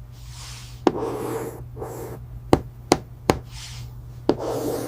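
Sharp taps or knocks, about five of them spaced irregularly, with short rubbing or rustling sounds between them over a steady low hum.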